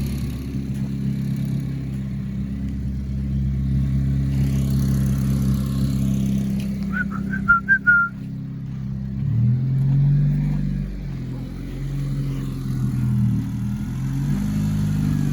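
Honda Civic Si's 2.4-litre four-cylinder engine running steadily, then its pitch rising and falling about nine seconds in as the car is driven off. A few short high-pitched chirps sound a little before that.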